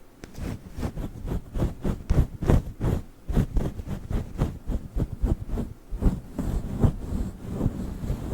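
Quick, irregular taps and scratches made right against the microphone, about three or four sharp strokes a second. They are typical of plastic witch-finger nails used as an ASMR trigger on the mic.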